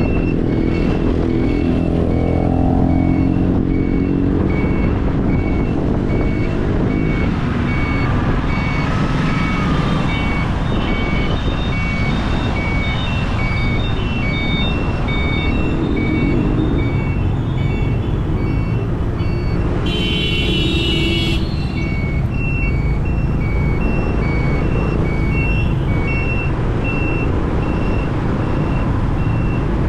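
Motorbike riding through busy city traffic, its engine and the road noise running steadily. A rapid, evenly repeating electronic beep sounds over it for most of the stretch, and a short horn blast comes about two-thirds of the way in.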